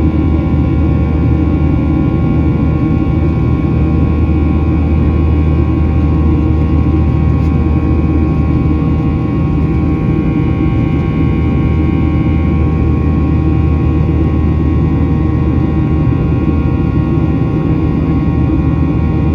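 Cabin noise of a Boeing 737-800 in flight: its CFM56-7B turbofan engines and airflow making a steady loud rumble with several constant whining tones layered over it, unchanging throughout.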